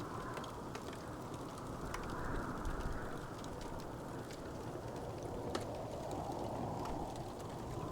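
Wood fire crackling, with a few sharp pops scattered irregularly over a steady low rushing hiss.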